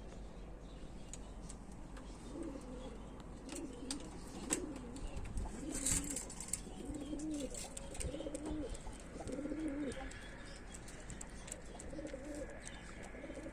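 Domestic pigeons cooing over and over in short rising-and-falling coos, with a few sharp clicks and knocks among them.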